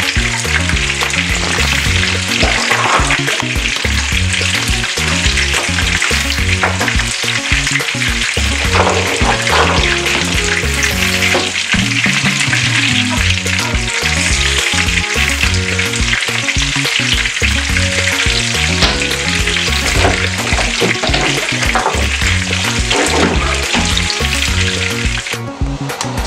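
Snails in their shells frying in hot oil in a frying pan, a steady loud sizzle and crackle of spitting oil. The sizzle dips briefly just before the end.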